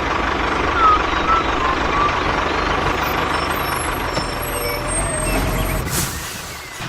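Steady vehicle-like engine running, a dense rumble with a faint steady high tone over it, thinning out near the end.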